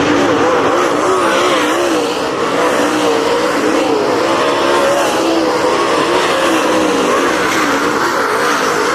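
Dirt-track race cars running laps together: several engines rising and falling in pitch as the cars throttle off and back on through the turns.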